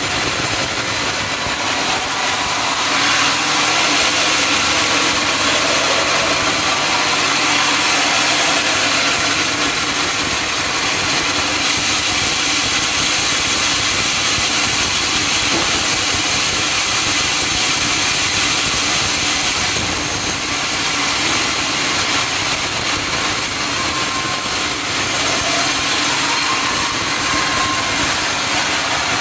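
Sawmill machinery running steadily while sawing a teak log, a loud continuous machine noise with a hiss of cutting.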